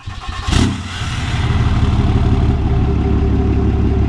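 Cummins 5.0 V8 turbodiesel in a Nissan Titan XD: a sudden loud burst about half a second in, then the engine running steadily with an even, rapid beat.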